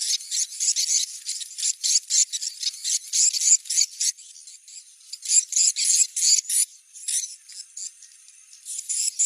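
Swiftlet lure recording: rapid, dense twittering chirps of edible-nest swiftlets over a thin steady high tone, a sound played to check whether a site draws swiftlets. The chirping thins out briefly twice in the middle.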